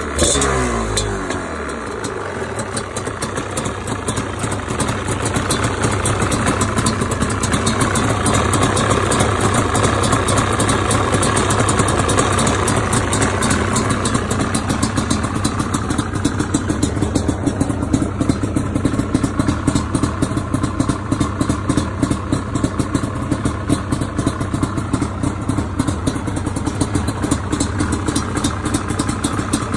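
Yamaha Banshee's twin-cylinder two-stroke engine dropping from a rev back to idle in the first couple of seconds, then idling with a rapid pulsing. The owner calls the idle weird.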